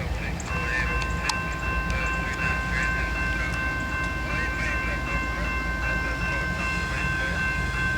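CSX diesel locomotive's multi-chime air horn sounding one long held chord that starts about half a second in, over the steady low rumble of the locomotive.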